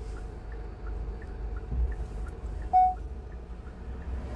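Car cabin road and engine noise while driving, a steady low rumble. A faint regular ticking about three times a second runs under it, and a short beep sounds about three quarters of the way through.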